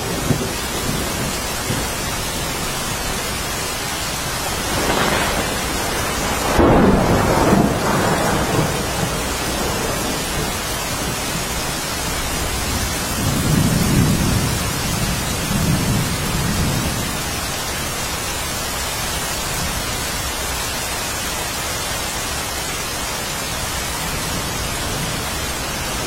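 Steady, heavy rainfall with thunder rolling twice: a louder rumble about a quarter of the way in and a lower, deeper one around the middle.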